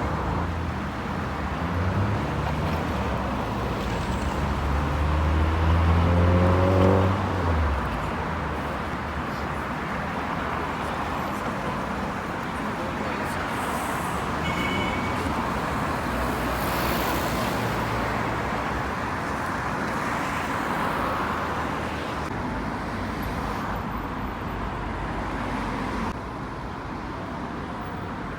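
Street traffic: a vehicle's engine running and climbing in pitch, getting louder until about seven seconds in and then dropping away, leaving a steady hum of road traffic.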